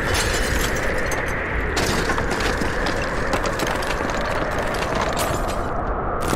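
Small motor and gears of a DIY model construction vehicle running steadily, with rattling clicks throughout.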